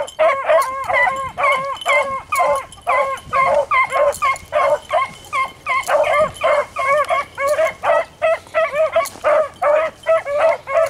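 A pack of beagles baying on a rabbit's trail: short, yelping bays that come several a second, overlapping without a break.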